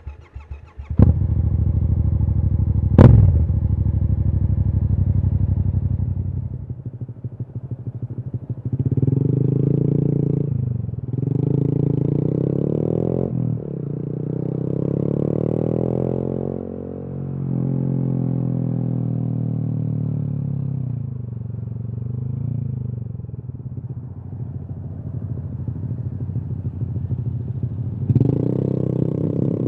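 Honda MSX/Grom 125's single-cylinder engine through an aftermarket Kemimoto exhaust, revving up and easing off in repeated rising and falling sweeps as the bike rides through traffic. It starts abruptly about a second in, and a single sharp crack about three seconds in is the loudest sound.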